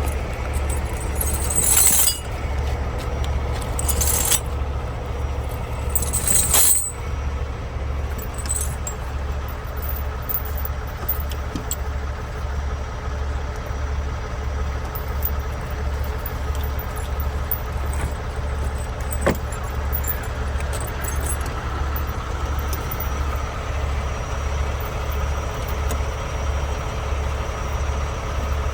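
Logging truck's diesel engine running with a steady low, evenly pulsing drone. Three short hissing bursts come in the first seven seconds.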